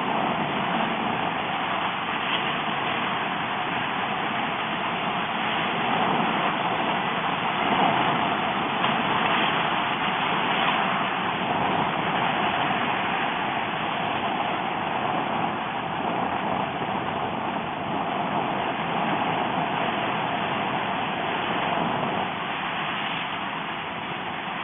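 Steady rushing noise of a Kawasaki Ninja H2 motorcycle being ridden, with wind and engine blended and no clear engine note, swelling slightly now and then.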